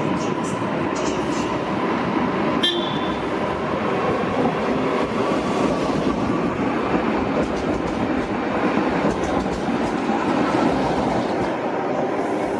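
A train moving through a railway station: a loud, steady rumble of wheels on track with a faint held tone above it. There is a single sharp click about two and a half seconds in.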